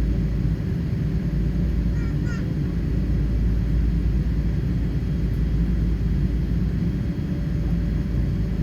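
Steady cabin noise of a Boeing 777-300 airliner: an even, unchanging rumble of the engines and airflow heard from inside the cabin. Two faint short high chirps come through about two seconds in.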